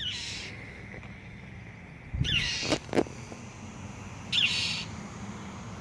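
A bird giving harsh scolding alarm calls, three short ones about two seconds apart: a mother bird mobbing a cat near her nest.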